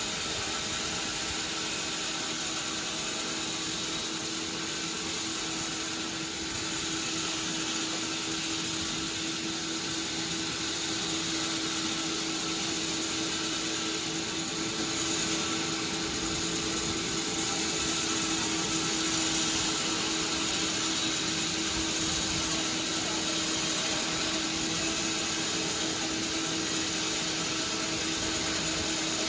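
Sawmill machinery running steadily, with a constant low hum and a high whine over a dense mechanical noise.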